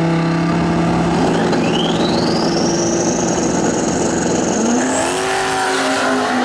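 Drag racing car's engine held at high, steady revs, with a high whine rising and then holding, and the engine note stepping up to a higher steady pitch near the end.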